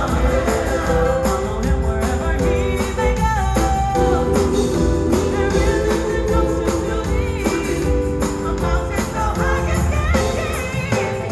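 Live gospel band and choir performing, with sustained voices over a steady drum beat.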